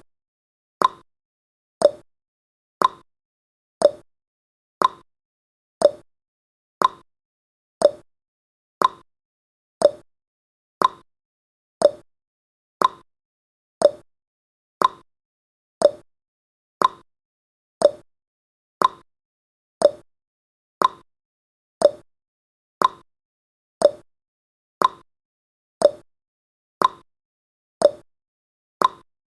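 A countdown timer's ticking sound effect: one short, crisp clock-like tick each second, steady and evenly spaced.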